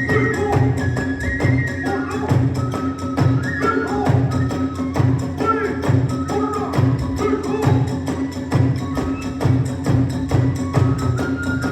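Kagura hayashi ensemble playing: a bamboo flute melody over steady drum beats and fast, rapid clashing of small hand cymbals, the accompaniment for a dance section.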